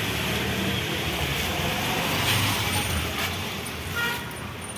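Steady road-vehicle noise, like passing traffic, easing off slightly near the end.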